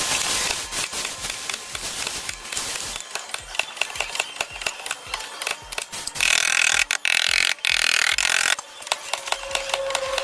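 Tools at work on a car body panel: rough rasping and scraping with scattered sharp clicks, a louder harsh stretch about two-thirds of the way through, then quick regular tapping near the end.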